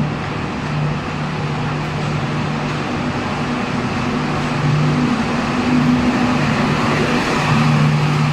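Double-decker LHB passenger coaches rolling past as the train pulls out, a steady rumble of wheels on rail with a constant low hum, growing slightly louder toward the end.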